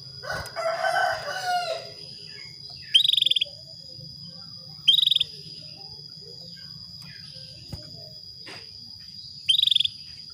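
Female canary giving short, bright call notes, three of them, each about half a second long: a hen in breeding condition calling to a male. A rooster crows once near the start, with a steady high tone running underneath.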